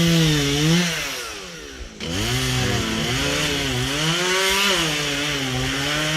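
Two-stroke Stihl chainsaw running at high revs while cutting wood. The revs sag and fall away about a second in, climb back sharply about two seconds in, and then waver up and down as the chain loads in the cut.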